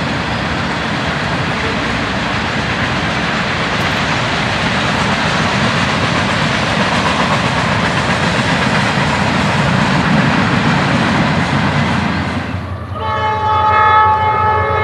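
Freight train passing, its cars rolling by with a steady rumble and wheel noise. Near the end the sound cuts abruptly to a loud, steady tone of several pitches sounding together, typical of a locomotive horn.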